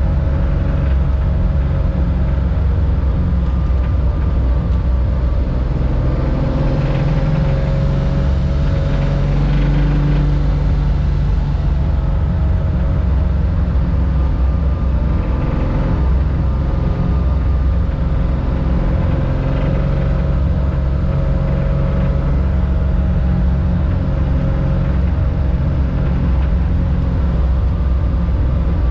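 1965 Porsche 911 2.0's air-cooled flat-six engine heard from inside the cockpit, running loud and steady with only gentle shifts in pitch.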